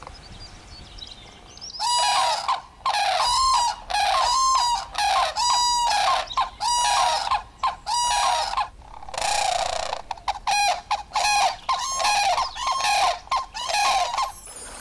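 A large wetland bird calling loudly and over and over: a quick series of about fifteen ringing calls, each about half a second long, starting about two seconds in.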